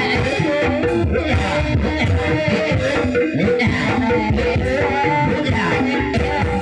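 Live campursari music playing continuously, a Javanese ensemble of melody instruments over a steady beat.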